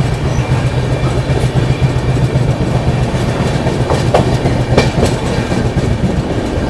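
Passenger train running slowly through a station, heard from outside the coach's side: the steady noise of the wheels on the rails with a low hum, and a couple of sharp clicks about four and five seconds in.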